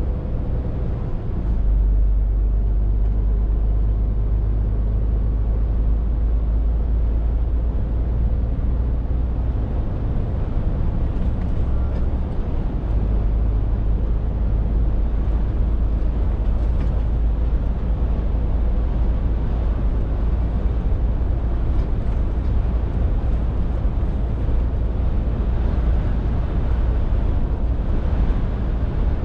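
Scania R450 lorry's 13-litre six-cylinder diesel engine running on the move, a steady low drone mixed with road noise. The low rumble swells about a second and a half in.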